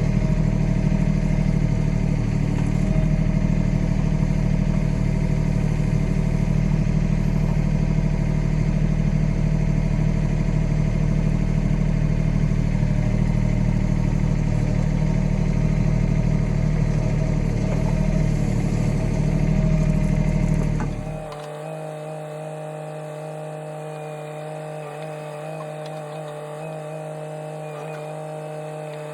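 Kioti compact tractor's diesel engine running steadily. About three-quarters of the way through, the sound drops suddenly to a quieter, thinner steady drone without its deep bass.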